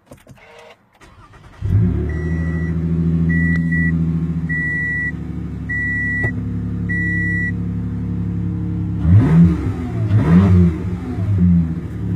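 Car engine with an upgraded exhaust starting up about a second and a half in and settling into a steady idle, while a chime beeps five times at an even pace. Near the end the throttle is blipped a few times, the exhaust note rising and falling.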